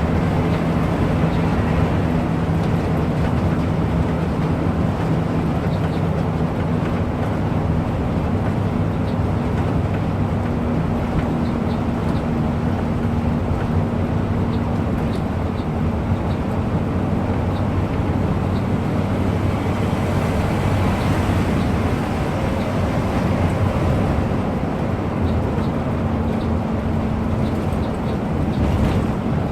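Bus on the move, its engine running with a steady low hum over continuous road noise. The engine note eases off around the middle and picks up again near the end.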